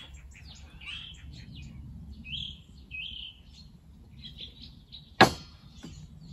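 Small birds chirping and twittering. About five seconds in, a sharp single clunk as a glass beer bottle is set down on a wooden table.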